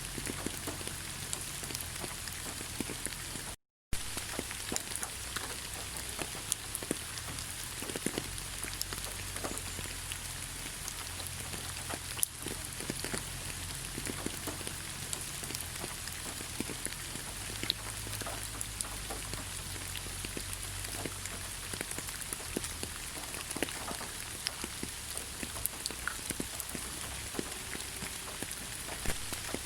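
Steady rain falling in a forest, with many small drops tapping throughout. The sound cuts out completely for a split second a little under four seconds in.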